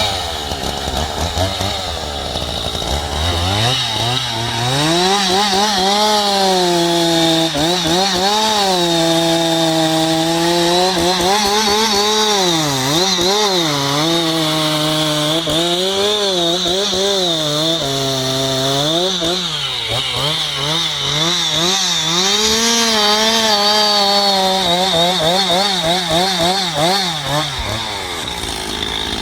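Two-stroke chainsaw revving up about three seconds in and cutting into a tree, its engine speed sagging and recovering again and again under load, then dropping back near the end.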